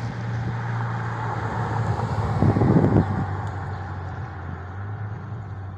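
A car driving past with its engine running and tyres on the road. The sound swells to its loudest a little before halfway through, then fades as it goes away.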